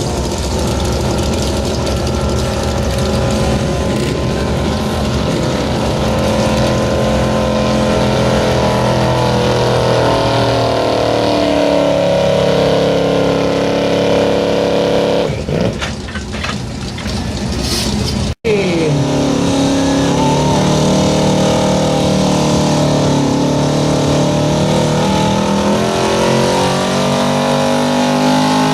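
Modified pulling tractor's engine running loud under load, its pitch rising and falling. The sound drops briefly and cuts out for an instant about two-thirds of the way through, then an engine carries on at a different pitch.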